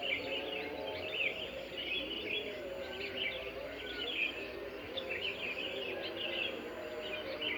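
Dawn chorus of many small birds chirping and twittering at once, with dense, overlapping calls and a steady lower murmur of other sound beneath.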